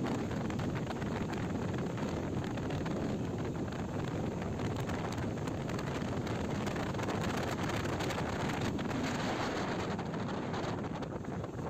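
Steady wind rushing over the microphone of a moving motorcycle, with the bike's road and running noise underneath.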